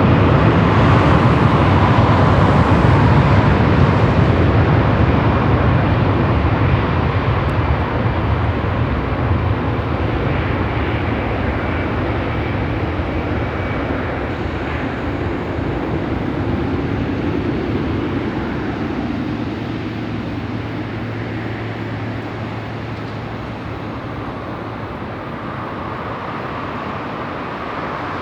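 Twin turbofan jet engines of a Boeing 777F running, a loud steady rumble with a faint whine that slowly fades as the aircraft moves off.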